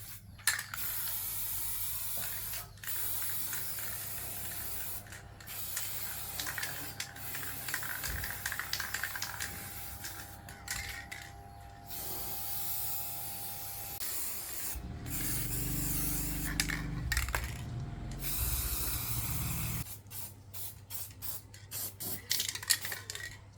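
Hissing spray, like compressed air or an aerosol, in long bursts broken by short pauses, over a low steady hum. A louder low rumble joins it for a few seconds past the middle.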